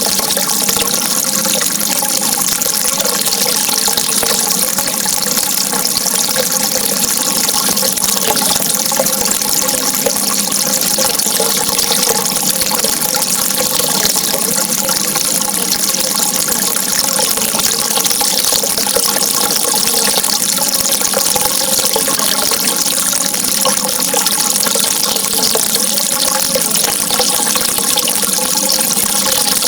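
Steady running water, an even continuous rush with a faint wavering gurgle beneath it.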